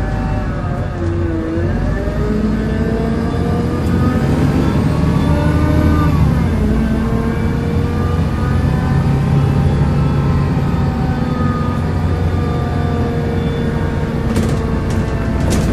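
Volvo B7L single-deck bus under way, heard from on board: its diesel engine drones steadily while a groaning set of tones slowly rises and falls in pitch over it. There are a few sharp rattles near the end.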